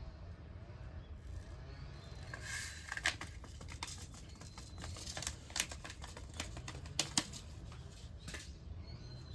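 Irregular sharp clicks and taps over a steady low hum, bunched in the middle.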